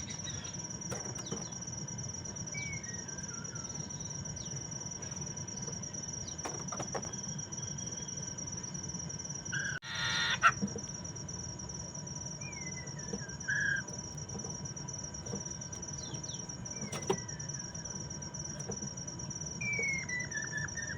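Chinese hwamei (Poksay Mandarin) singing: scattered short whistled notes and phrases that slide downward in pitch, with one loud harsh call about halfway through. A steady, high-pitched, cricket-like buzz runs beneath the song.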